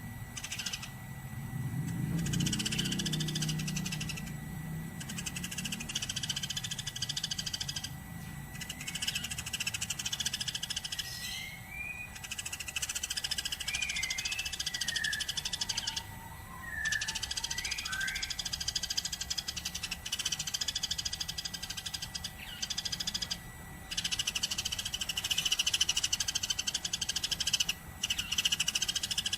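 Eurasian tree sparrows chirping and chattering in rapid, dense runs broken by brief pauses, with a few short whistled notes sliding up and down near the middle.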